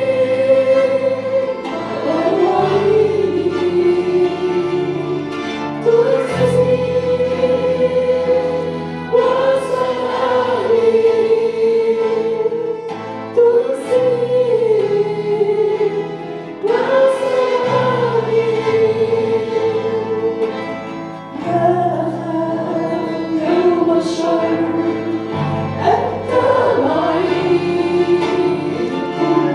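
A group of voices singing an Arabic Christian worship hymn together, with instrumental accompaniment carrying a steady bass line under sustained sung melody.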